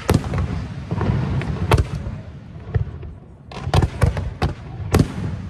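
Fireworks display: sharp bangs of aerial shells bursting, one about every second or two and several close together around four seconds in, over a continuous low rumble.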